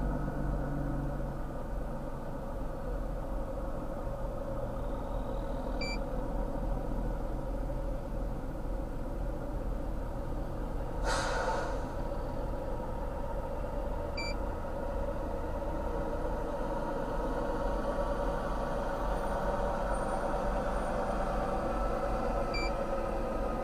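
A vehicle engine idling with a steady low rumble, with one short hiss about halfway through. Faint short beeps come about every eight seconds.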